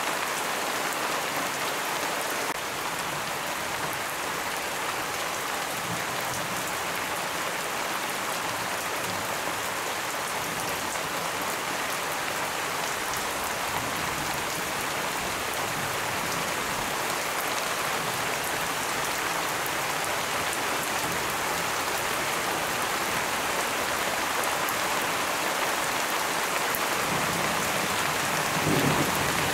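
Steady heavy rain falling on forest foliage. About a second before the end, a low rumble of thunder begins to build.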